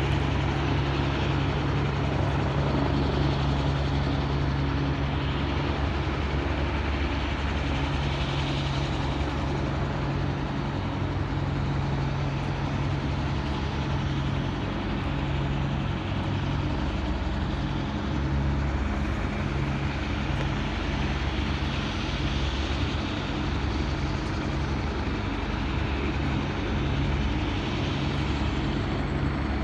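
Police helicopter's rotor and engine running steadily, with a fast low rotor beat that holds about the same level throughout.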